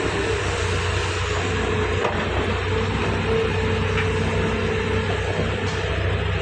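Diesel engine of a Doosan DX180W wheeled excavator running steadily with a low drone, and a higher whine over it that comes and goes.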